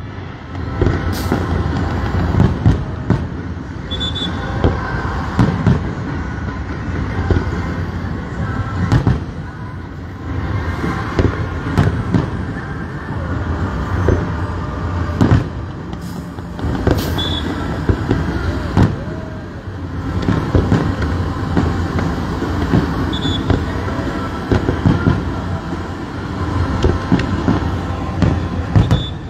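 Fireworks display: repeated sharp bangs and crackles over a steady, dense background din.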